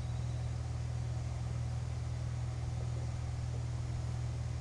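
Air compressor running steadily with a low, even hum while a large tractor tire is being inflated.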